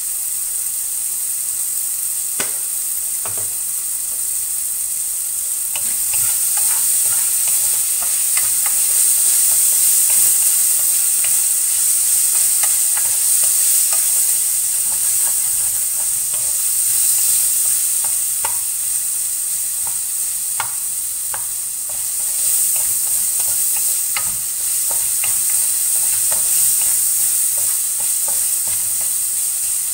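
Chopped vegetables sizzling in oil in a wok, with a steady high hiss, while a wooden spatula stirs them and taps and scrapes against the pan. The sizzle swells about six seconds in and eases briefly near twenty seconds.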